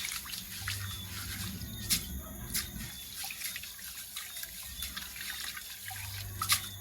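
Jasmine rice being washed by hand in a pot of water, rubbed to wash out the starch: water splashing and swishing, with scattered sharp knocks against the pot, the sharpest near the end.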